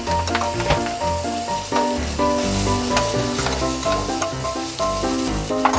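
Strips of fishcake sizzling as they are stir-fried in a frying pan, with short clicks of chopsticks against the pan, under background music with a tune and bass line.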